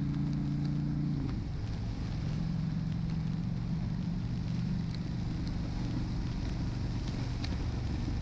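Honda Shadow 750's V-twin engine running under way; about a second in its note drops and changes as the throttle eases or a gear changes, then holds steady. Wind noise on the microphone runs underneath, with a few faint ticks of rain hitting the camera.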